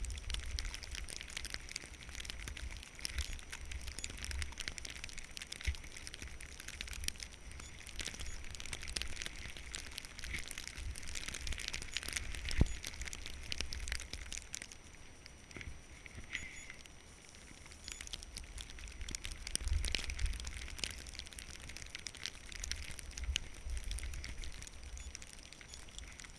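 Skis sliding over snow, a crackling hiss with scattered sharper clicks, and wind buffeting the microphone as a gusty low rumble.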